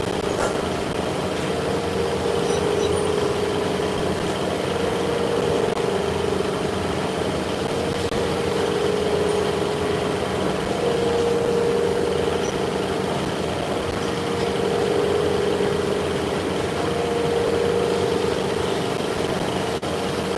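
Shop machinery running with a steady hum, with a mid-pitched tone that swells and fades every few seconds.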